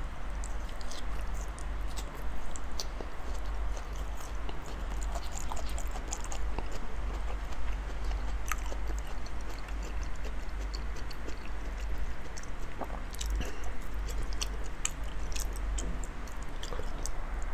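Close-up chewing of a large mouthful of soft raw salmon: wet mouth sounds with scattered small clicks, over a steady low hum.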